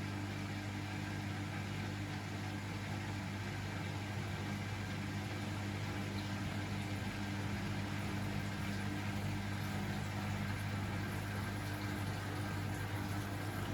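Beko WML 71433 NP washing machine running with a steady, even hum that holds level throughout.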